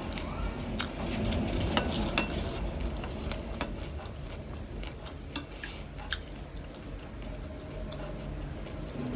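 Close-up eating sounds: scattered sharp clicks of a utensil against a dish mixed with crunching. A denser, louder stretch comes about one and a half to two and a half seconds in.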